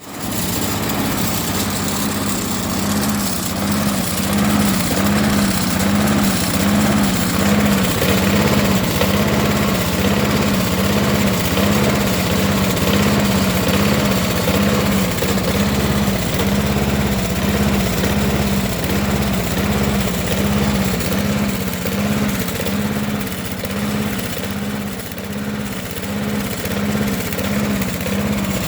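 Briggs & Stratton 6.25 HP lawn mower engine idling roughly. Its speed rises and falls in an even rhythm a little more than once a second.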